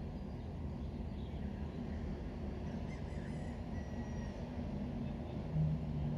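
Steady low ambient rumble, with a few faint high chirps near the middle and a short low honk-like tone about five and a half seconds in.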